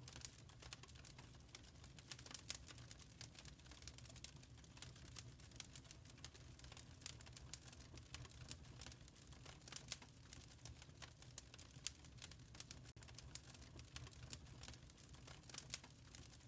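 Fireplace wood fire crackling quietly: irregular small snaps and pops over a low steady rumble.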